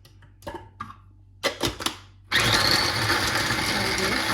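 A few knocks and clicks, then about two seconds in a small electric blender is switched on and runs steadily, blending cucumber and lemon juice.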